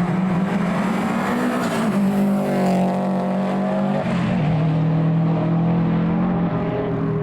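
Rally cars racing past on a tarmac circuit, engines running hard; the engine note bends around two to three seconds in and drops in pitch about four seconds in.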